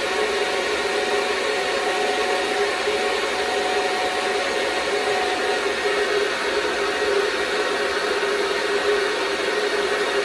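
Countertop blender running steadily, blending leafy greens, banana and water into a smoothie: a loud, even motor whir with a few held tones.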